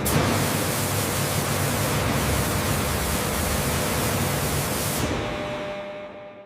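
A steady, loud rushing hiss that starts abruptly and fades away over the last second or so, the high end dying first.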